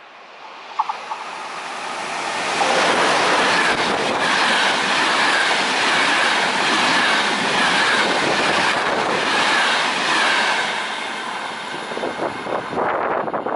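ÖBB railjet train hauled by a Taurus electric locomotive approaching and passing at speed. A rush of wheels on rail swells over the first few seconds and stays loud while the coaches go by, with a steady high whine and clicking over the rails, then falls away near the end.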